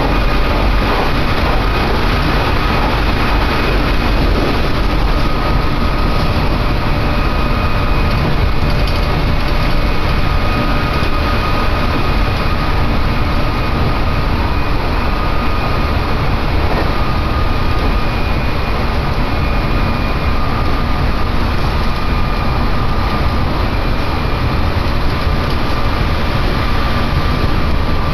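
Electric train running at speed, heard from inside the carriage: a loud, steady rumble of wheels and rails with a faint steady whine.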